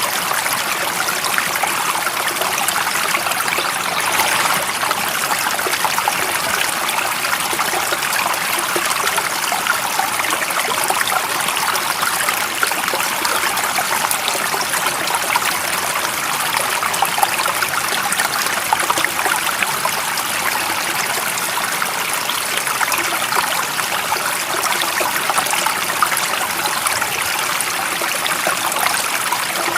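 Water of a stream running steadily: an even rush with fine trickling, bright and light with little low rumble.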